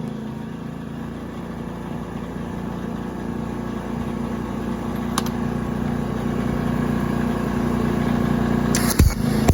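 Denyo GAW180SS engine welder's engine running steadily, growing slowly louder. Near the end, a burst of sharp crackling clicks begins.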